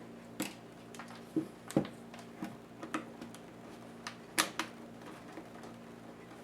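Irregular clicks and light knocks from hands and tools working on the plastic parts of a Lenovo IdeaPad S10-3T netbook during disassembly. There are about ten in all over a steady low hum.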